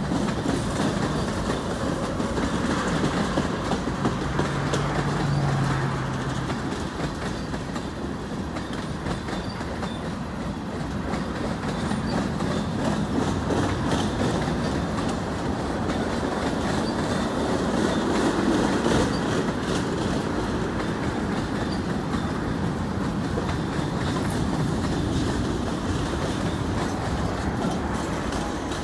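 CN freight train's tank cars and covered hoppers rolling past, steel wheels rumbling and clicking steadily on the rails.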